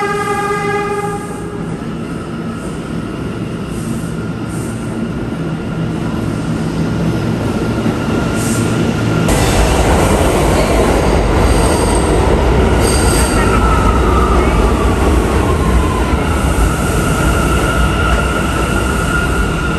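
New York City subway train in a station: a horn blast ends about a second in, then steady running noise on the tracks. About nine seconds in a train comes through much louder and rumbles past, with wheel squeal and a falling whine.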